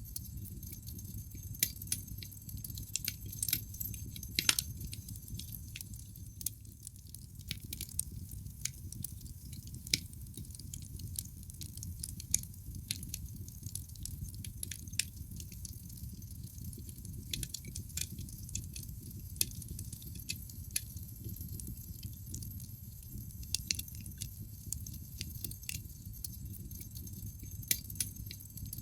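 Wood fire burning in a fireplace: a steady low rumble of flames with irregular sharp crackles and pops from the logs, a few louder pops standing out about four and a half and ten seconds in.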